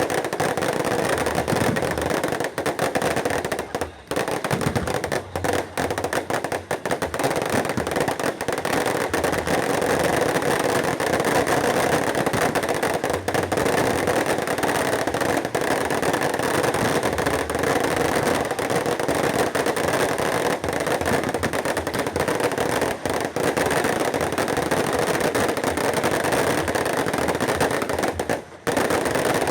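Fireworks going off in a dense, continuous barrage of crackles and pops.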